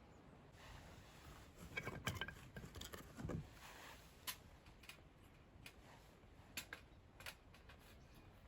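Wood fire crackling faintly with scattered sharp pops. A short burst of rustling and a soft thump come about two to three seconds in.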